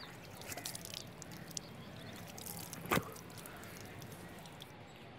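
Faint water splashing and dripping at a small wash basin, with scattered small clicks and one sharp click about three seconds in.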